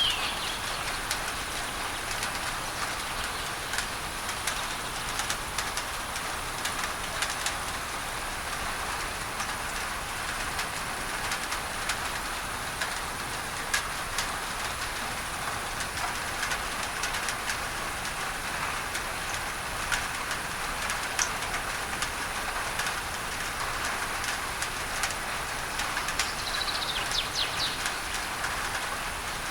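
Steady rain drumming on a tin roof, full of fine drop ticks, under a continuous hiss of masking noise. A bird chirps briefly at the very start and again with a quick run of chirps near the end.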